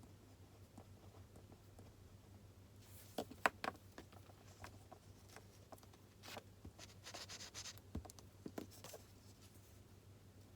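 Pen writing on paper at a desk: a few sharp taps and clicks about three seconds in, then a stretch of scratchy strokes and more clicks later, over a faint steady hum.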